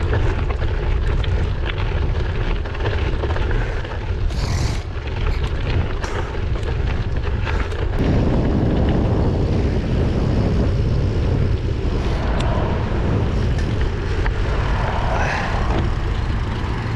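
Wind buffeting a GoPro's microphone on a moving gravel bike, a steady low rumble, with tyre noise and small clicks from the road surface under it; the rumble thickens about halfway through.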